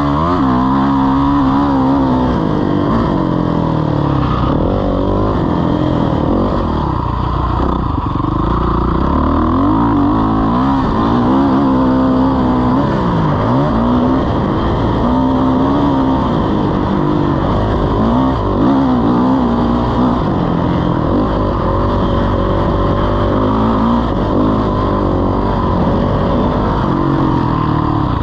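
Motocross motorcycle engine revving hard, its pitch climbing and dropping every second or two as the throttle is worked through the gears.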